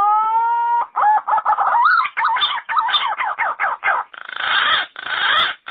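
Yellow-footed green pigeon's whistled song. It opens with one long rising note, breaks into a fast run of wavering, warbling notes, and ends in coarser, noisier notes.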